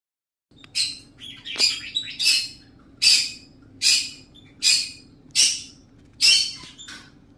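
Pet parrot giving a run of harsh, high screeching calls, about nine in a row, evenly spaced at roughly one every three-quarters of a second.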